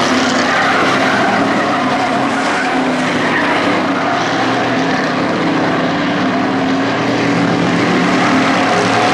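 Engines of a pack of hobby-class race trucks running at speed together around the oval, a steady dense engine noise with several overlapping pitches shifting as the trucks go through the corner.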